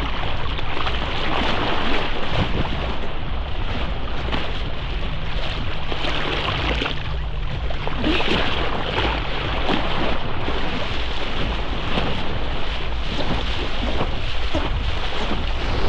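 Wind buffeting the microphone, with water splashing and lapping underneath, in uneven gusts.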